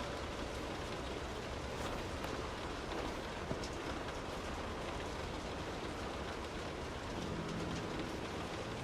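Steady rain falling, an even hiss with scattered drops ticking on a surface and a low rumble beneath.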